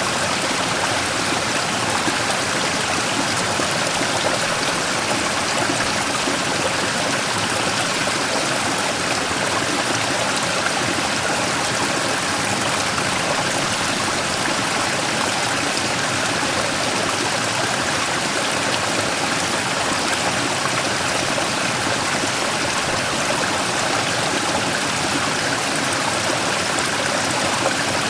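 Mountain stream rushing steadily over and around a large rock, a constant splashing water noise with no breaks.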